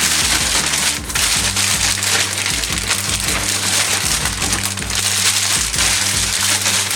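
Packaging handled steadily, a dense crinkling and rustling, over background music with a repeating bass line.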